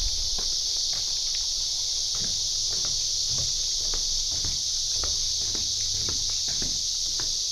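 A steady, high insect chorus fills the air, with footsteps thudding along at a walking pace.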